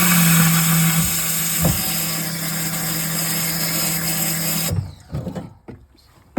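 Pressure washer running, a steady motor hum under the hiss of its jet being forced into a grease-clogged kitchen drain line, then cutting off sharply about three-quarters of the way through.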